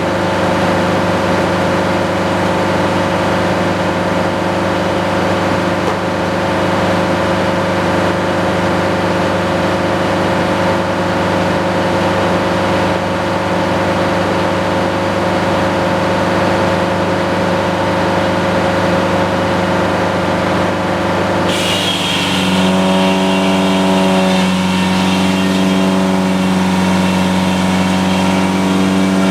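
Sawmill engine running steadily. About three-quarters of the way through, a hiss and a higher whine come in and the engine note changes and grows a little louder.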